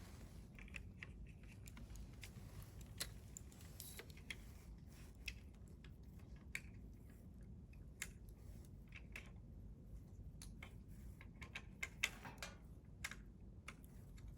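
Burning firewood crackling: irregular small snaps and pops over a faint low rumble, with one sharper pop about twelve seconds in.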